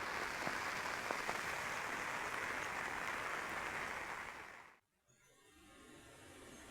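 Heavy rain falling as a dense, steady hiss with a few sharp drips; a little under five seconds in it drops out abruptly to near silence, then comes back softer.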